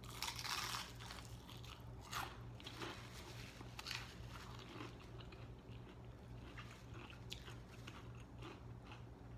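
A crunchy bite into a fried onion ring, followed by chewing with scattered smaller crunches. The bite is loudest, right at the start.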